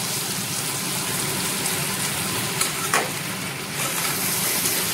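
Pumpkin, potato and prawn pieces sizzling in hot oil in a kadai as a steel spatula stirs them, with one short knock of the spatula against the pan about three seconds in.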